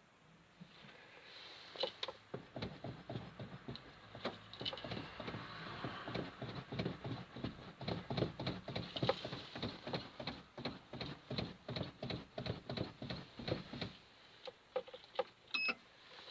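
Toyota Land Cruiser LJ73's 2.4-litre diesel being cranked by its starter in the cold, with an even chugging of compression strokes about four times a second for roughly twelve seconds. Cranking then stops without the engine settling into a steady run, so the cold start has not yet succeeded.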